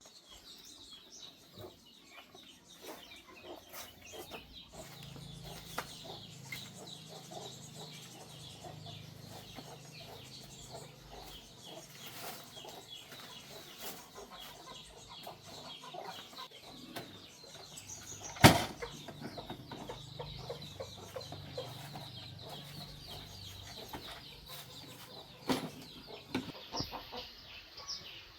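Chickens clucking, with scattered light clicks and knocks and one sharp knock about two-thirds of the way through.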